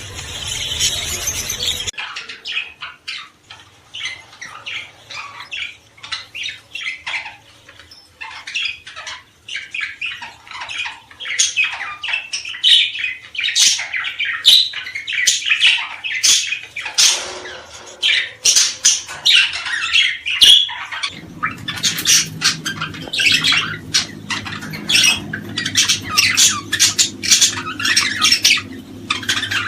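A flock of small cage birds calling together: a fast, dense stream of sharp chirps and squawks, the kind of recording played to set pet birds singing. About two-thirds of the way through a low steady hum starts under the calls.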